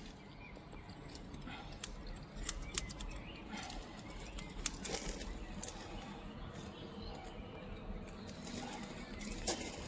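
Small scissors snipping through plastic bird netting, with scattered sharp snips and the net rustling.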